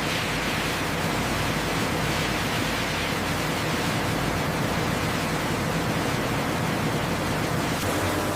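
Steady factory machinery noise: a loud, even hiss with a faint low hum underneath, starting abruptly and holding unchanged.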